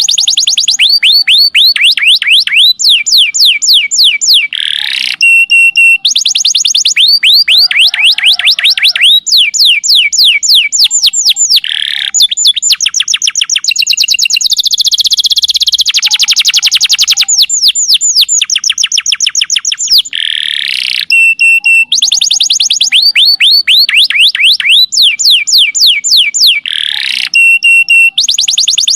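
Domestic canary song: rapid trills of quick downward-sweeping notes, short high whistles and a buzzy rolling passage about halfway through, with the same run of phrases coming back several times. It is a masteran recording, canary song played to caged canaries to set them singing.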